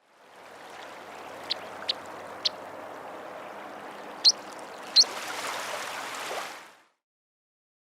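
A plover giving five short, high piping calls, three softer ones then two louder, over steady water noise.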